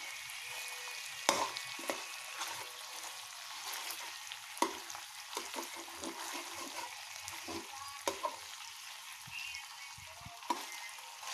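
Food sizzling in a hot pan while being stirred, with a cooking utensil knocking and scraping against the pan several times.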